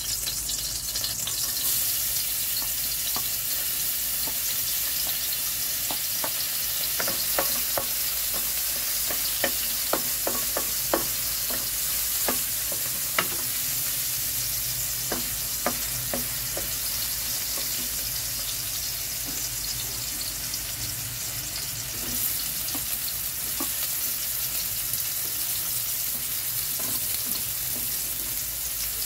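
Garlic and onion sautéing in hot oil in a wok: a steady sizzle that starts suddenly, with a wooden spatula stirring and scattered sharp clicks and pops, most of them in the first half.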